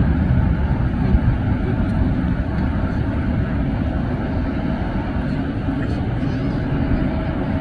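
Jet airliner engines making a steady low roar that eases slightly, with a faint steady whine coming in near the end.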